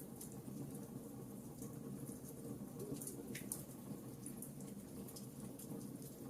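Burning logs in a fireplace crackling: irregular sharp snaps and pops over a steady low rumble of the fire.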